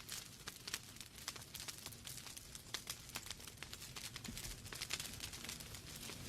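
Wood fire burning in a fireplace: logs crackling and popping with many small irregular snaps over a low rumble and hiss of the flames.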